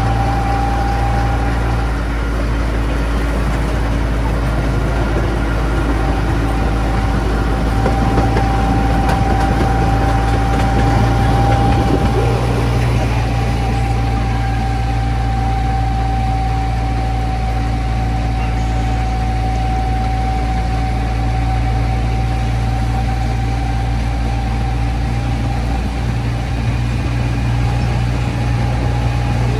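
Miniature park train running steadily: a constant low engine hum with a steady high whine over it that drops out for a few seconds near the start.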